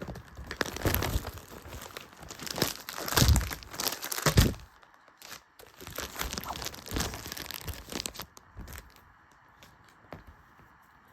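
A package being torn open by hand: bursts of tearing and crinkling of the packaging, which die away to a few light clicks about eight seconds in.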